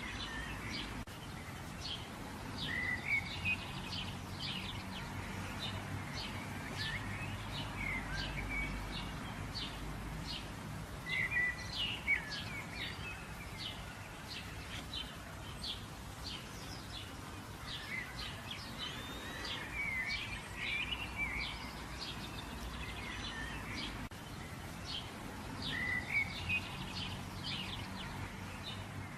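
Birds chirping: many short, high chirps with a brief warbling phrase every few seconds, over a steady low background noise.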